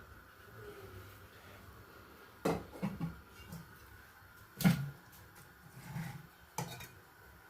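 A few scattered knocks and clunks of things being handled and set down, the loudest about halfway through.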